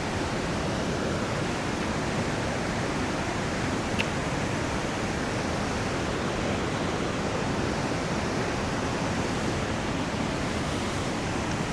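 Youghiogheny River water rushing steadily, an even, unbroken roar of flowing water, with one faint click about four seconds in.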